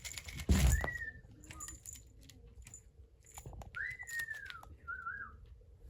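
A bird calling in three short whistled notes: a brief one, then an arched call that falls in pitch, then a short wavering one. A single thump comes about half a second in.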